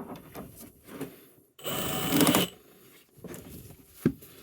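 Cordless hammer drill briefly spinning a Flexshaft drain-cleaning cable in a sewer pipe, a short run of under a second about a second and a half in. Around it are scattered clicks and knocks of the cable and gear being handled.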